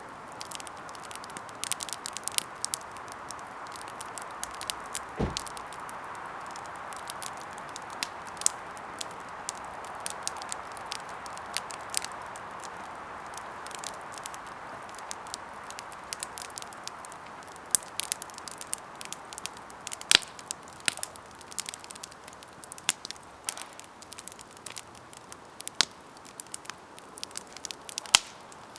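Wood campfire burning, crackling with many irregular sharp pops over a steady hiss; a few louder pops stand out in the second half.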